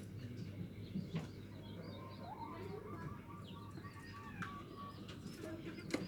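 Zebra dove (perkutut) cooing faintly, a quick run of short notes in the middle, with a few higher chirps around it.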